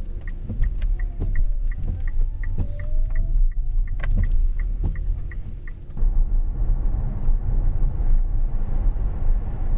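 Steady road and tyre rumble of a moving car, heard inside the cabin. For the first six seconds a small tick repeats about three times a second, then stops.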